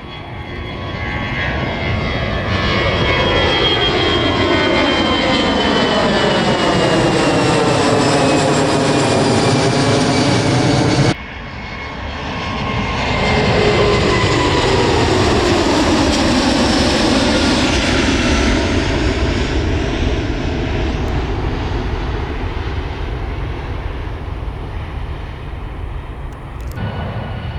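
Jet airliner taking off at full thrust: a loud engine roar with high whining tones that slowly fall in pitch as it passes. About 11 seconds in it cuts off abruptly to a second jet takeoff, which swells and then slowly fades.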